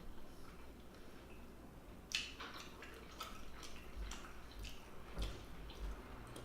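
Wet chewing and mouth smacks from someone chewing a big mouthful of lobster tail meat, a scatter of small clicks with a louder smack about two seconds in.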